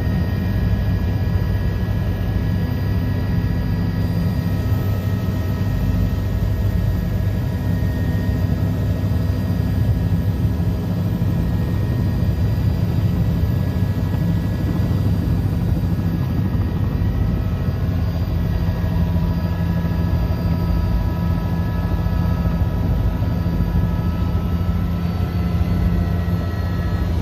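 Helicopter running steadily in flight, with a low, even rotor and engine drone and a steady high whine over it.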